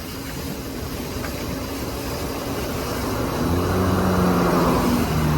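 Wind and road noise building as a BMX bike picks up speed down a slope. A motor vehicle's engine hum comes in about three and a half seconds in.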